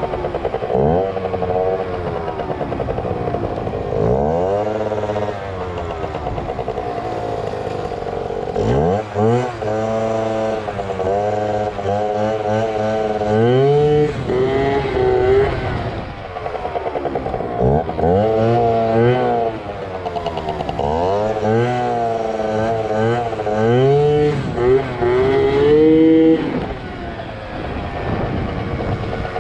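Yamaha ZR Evo two-stroke scooter engine revving hard over and over in rising sweeps, falling back between them, as the rider tries to lift the front wheel into a wheelie.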